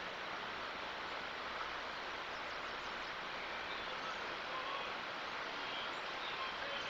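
Steady outdoor background hiss, with a few faint short chirps in the second half.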